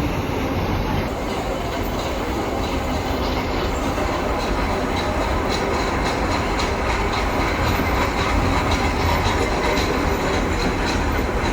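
Nilgiri Mountain Railway train rolling along its metre-gauge track: a steady rumble of carriage wheels on the rails, with clicking over the rail joints that becomes more frequent in the second half.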